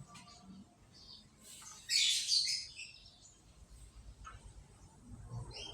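Canary chirping: faint scattered chirps, then a loud burst of rapid high chirps about two seconds in lasting around a second, and another burst starting at the very end.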